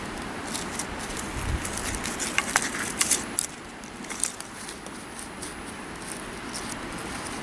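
Small driftwood campfire crackling: a run of sharp clicks and pops over a steady hiss, thick for the first few seconds and then only now and then. The wood is hard cherry that catches poorly.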